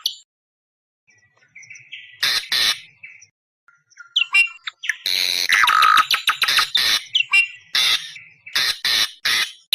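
Awar-awar bird lure calls: harsh, scratchy squawks and chatter. After a second of silence comes a short burst about two seconds in, then from about four seconds on a long run of rapid harsh notes mixed with a few brief clearer whistles.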